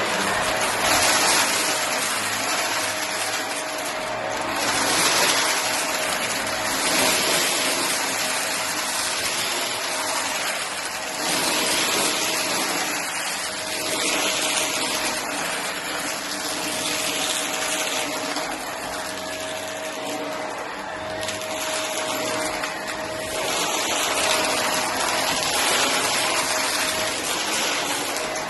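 Shark vacuum cleaner running with a steady motor whine, its rushing suction noise swelling and fading every second or two as it works over and picks up cardboard debris.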